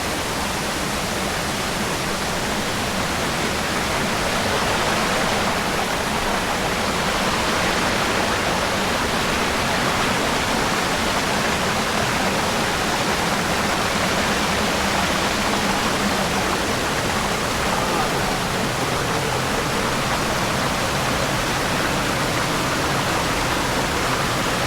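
Steady rushing of a rainforest river or waterfall, a continuous watery roar that grows slightly louder about four seconds in.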